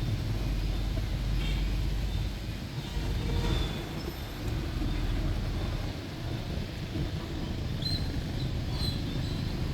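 Tour bus riding through city traffic: a steady low rumble of engine and road noise.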